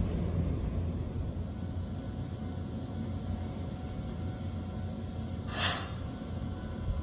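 Nankai 7100-series electric trains standing at a station platform: a low, uneven rumble, with one short hiss of air about five and a half seconds in.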